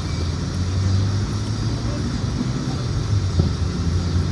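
A steady low engine hum, running evenly with no change in pitch.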